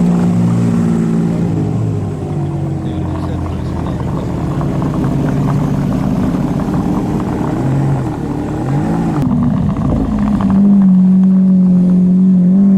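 Car engine running at steady revs, with a brief rise and fall in revs about nine seconds in, then holding a steady, slightly higher note.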